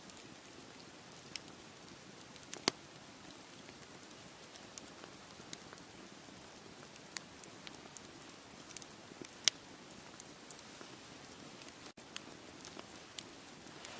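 Wood campfire crackling: irregular sharp pops and snaps, two of them much louder than the rest, over a steady hiss of sea surf. The sound cuts out for an instant near the end.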